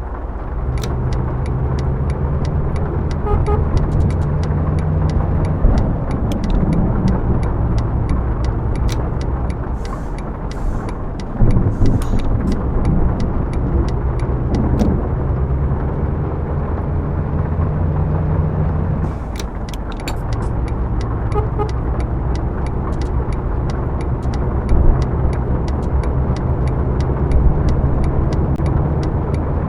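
Scania K124 coach's six-cylinder diesel engine running steadily, its low engine note breaking off and picking up again twice, about eleven and nineteen seconds in. Many sharp ticks and rattles sound over it.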